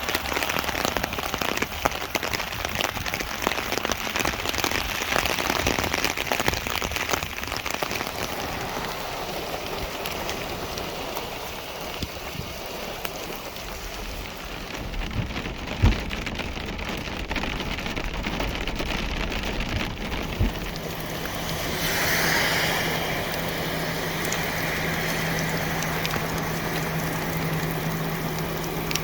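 Heavy rain pattering steadily, easing somewhat after about ten seconds. Two brief thumps come in the middle, and a steady low hum joins about two-thirds of the way through.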